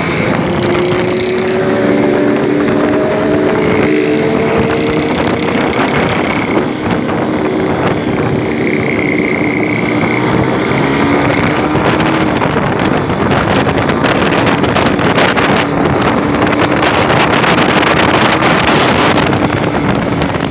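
Motorcycle engine running under way, its pitch rising slowly during the first few seconds and then holding steady, with wind buffeting the microphone that grows louder over the second half.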